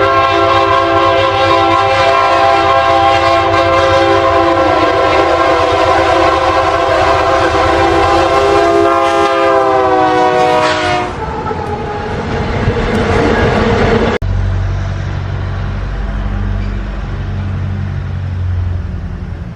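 A locomotive air horn sounding a long chord of several notes for about ten seconds, its pitch dropping as the train passes, followed by the rumble of the passing train. After a sudden cut about fourteen seconds in, the low, steady running of an SD70 diesel locomotive's engine.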